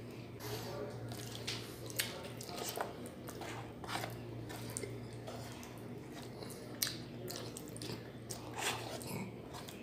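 Close-up chewing and wet mouth smacks of someone eating canned sardines and rice by hand, in irregular moist clicks, over a low steady hum.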